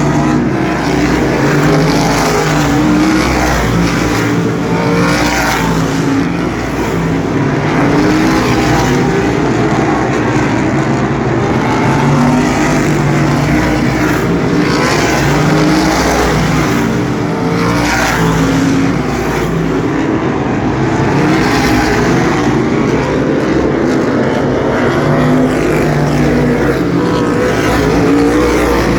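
A field of sprint cars racing on an asphalt oval: many engines running at once, with a car's engine swelling as it passes every couple of seconds.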